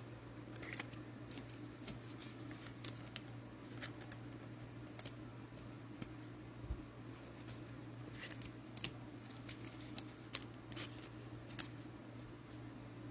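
Trading cards being handled: scattered light clicks and taps as cards are sorted and set down, over a steady low hum.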